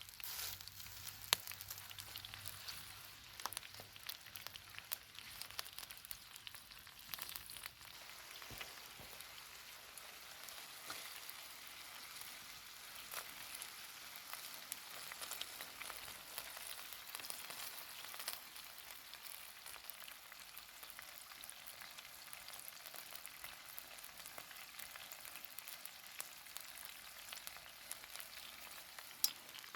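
Food sizzling in a hot pan over a wood fire: a steady hiss dotted with small pops and crackles.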